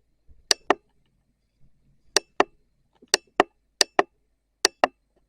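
Sharp hard clicks in quick pairs, about five pairs spread at uneven gaps.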